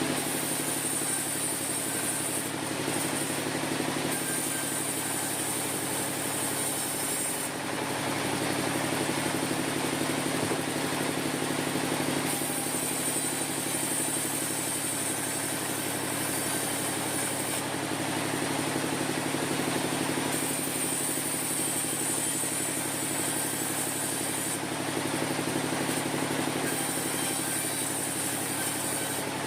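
Sawmill machinery running with a steady engine-like hum. A high hiss comes and goes in stretches of a few seconds over it.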